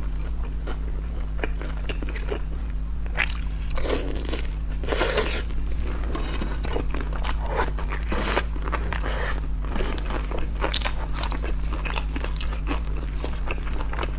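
Close-miked eating of pan-fried crystal dumplings: biting and chewing with many small sharp clicks and wet mouth sounds, louder around four to five seconds in and again near eight seconds. A steady low hum runs underneath.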